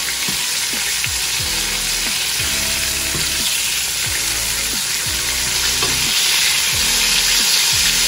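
Flour-breaded small fish sizzling in hot oil in a frying pan, a steady crackling hiss that grows a little louder about six seconds in. The fish are partway through frying, not yet browned.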